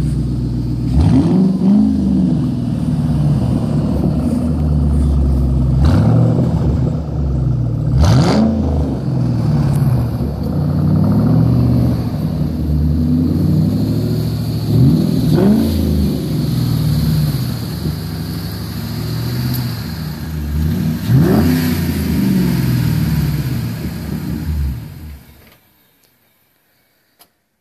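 2006 Ford Mustang GT's 4.6-litre V8 idling and revved in about five quick blips, each climbing in pitch and falling back to idle. The engine sound stops near the end.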